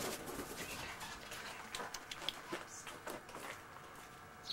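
Faint scattered clicks and taps, with a couple of short high bird chirps about two and three seconds in and another sharp chirp at the end.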